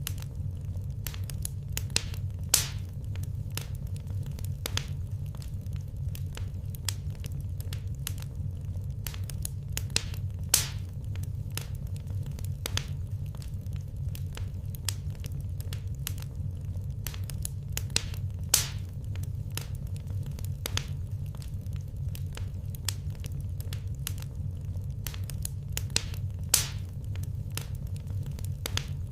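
Wood fire crackling with many small pops over a steady low rumble. A few louder snaps come about every eight seconds.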